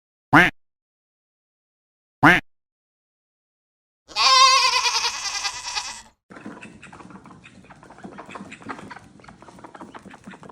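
Two short duck quacks about two seconds apart, then a goat screaming in one long wavering cry for about two seconds. After that comes a quieter, dense, irregular pattering of duck feet walking.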